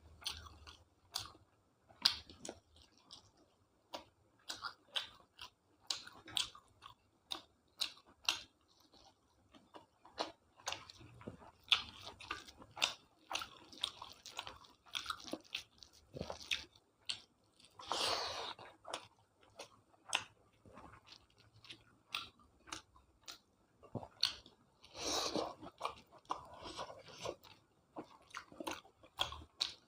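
Close-up eating sounds: a person chewing and biting food with irregular wet mouth clicks, smacks and occasional crunches. There are longer, louder chewing noises about two-thirds of the way through and again near the end.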